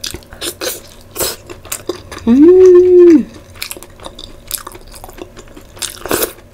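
Close-up mouth sounds of a person eating by hand: chewing with quick wet smacks and clicks. About two seconds in comes a loud hummed 'mmm' held on one pitch for about a second.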